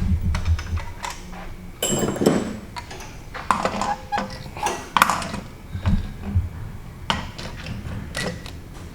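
Irregular metallic clinks, clanks and knocks of tools and engine parts being handled on a workbench, one clank about two seconds in ringing briefly.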